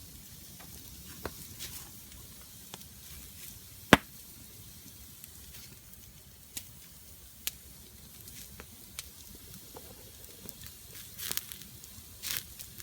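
Wood fire crackling: scattered sharp pops and snaps over a faint steady hiss, with one loud crack about four seconds in.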